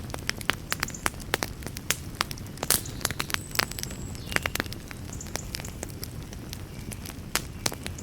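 Wood fire burning in a fireplace, crackling and popping irregularly over a low steady rumble of flame, with a few faint brief hisses or whistles from the burning wood.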